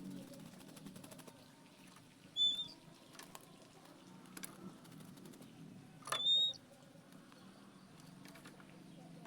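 Magpie-robin giving two short, clear whistled notes about four seconds apart, the second a little longer, amid faint clicks and pattering over a steady low hum.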